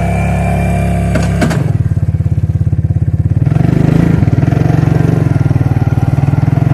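Suzuki King Quad ATV's single-cylinder engine running. A short knock about a second and a half in, then a rhythmic low pulsing engine note that gets stronger about halfway through.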